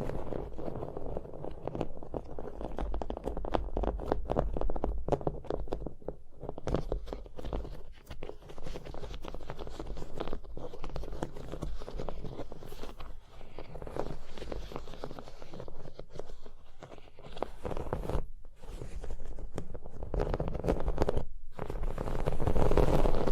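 Rapid tapping on objects, fast dense clicks with brief scratchy textures, pausing briefly twice near the end.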